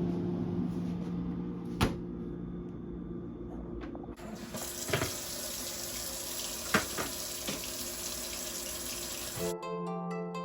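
Kitchen sink tap turned on about four seconds in, water running into the sink with a few clinks and knocks, then cut off. Soft plucked-string background music starts near the end.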